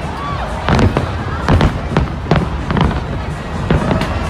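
Aerial fireworks shells bursting in quick succession, about two sharp bangs a second, over a steady background of crowd noise.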